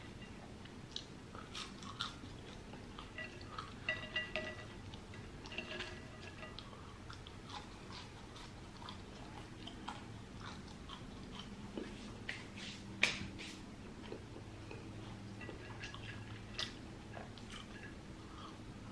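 A person chewing fries, with scattered soft mouth clicks and one sharper click about 13 seconds in.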